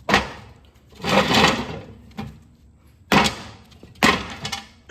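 Hammer blows on the steel spindle of a mower deck hub held in a vise: about five sharp metallic strikes, roughly one a second, each with a short ring, as the shaft and bearings are driven out.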